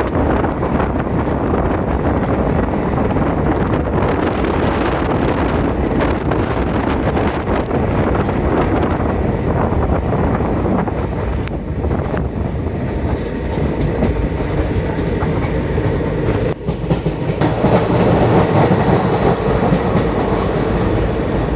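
A train running on the rails: a steady rumble with the clatter of wheels. About three-quarters of the way through it grows suddenly louder, with more hiss.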